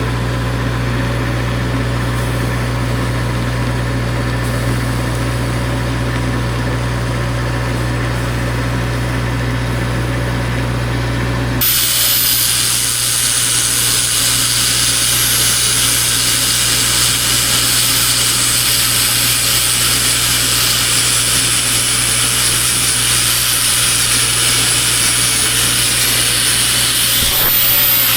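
An engine idles with a steady low hum. About twelve seconds in, it gives way abruptly to a power tool running steadily with a high-pitched whine and hiss, typical of an angle grinder working on steel.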